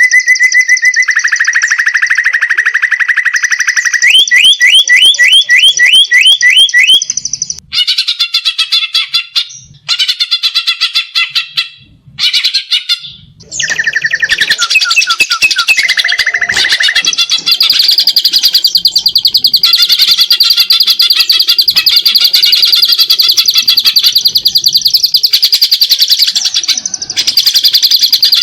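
Greater green leafbird (cucak ijo) singing loudly in a fast, rattling song made of rapid trills and quick runs of rising notes. The song breaks off briefly a few times in the first half, then runs as one unbroken fast trill from just past the middle to the end.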